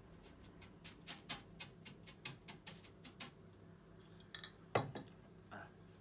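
A quick run of light clicks and taps on a metal oven pan, about four or five a second, while breadcrumbs go into it. A single louder knock comes near the end.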